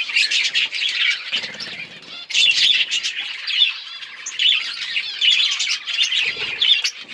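Many budgerigars chirping at once, a dense chatter of overlapping calls that lets up briefly about two seconds in.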